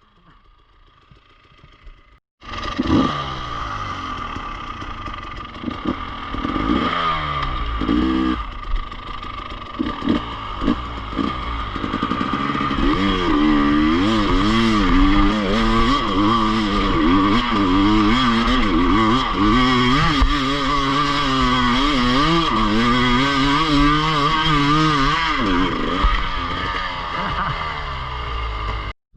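Enduro motorcycle engine, quiet for the first couple of seconds, then coming in suddenly and running hard. Its pitch rises and falls over and over as the throttle is opened and closed, until it cuts off abruptly near the end.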